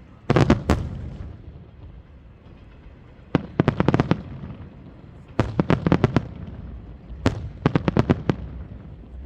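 Fireworks bursting in four quick volleys of sharp bangs, each volley several reports in rapid succession, about two seconds apart.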